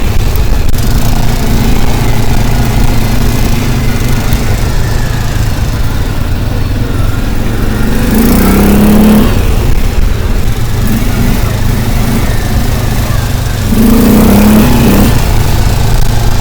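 A motor vehicle's engine running with a heavy, steady rumble. It revs up briefly twice, about eight seconds in and near the end.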